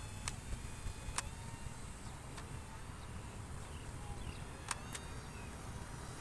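Faint, steady whine of a remote-control airplane's electric motor over a low rumbling noise, with a few sharp clicks.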